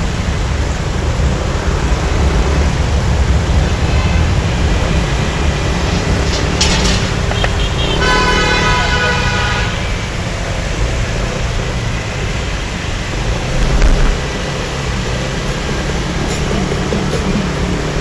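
Motorbike ride through city traffic: steady engine and road noise throughout, with a vehicle horn honking for about two seconds in the middle.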